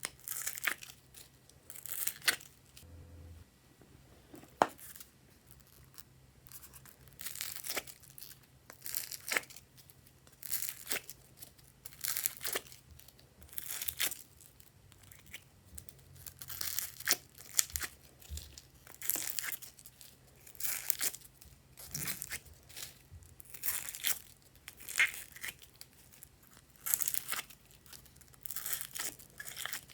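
Glossy slime being pressed, stretched and folded by hand, giving short sticky crackles and pops about once or twice a second.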